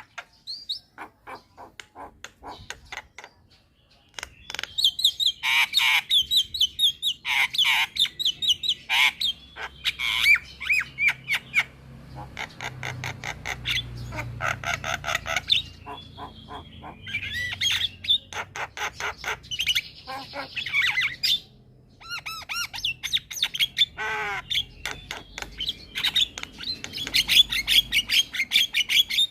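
Javan myna singing a long, varied chattering song of rapid clicking notes mixed with harsh squawks and short whistled glides, broken by brief pauses.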